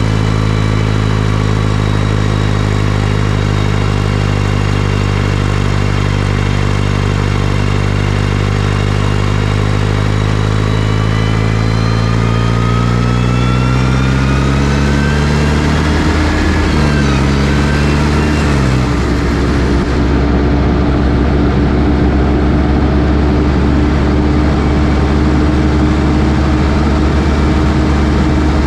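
New Holland T6040 tractor's diesel engine running at low revs, then revving up over several seconds about halfway through and holding steady at higher revs.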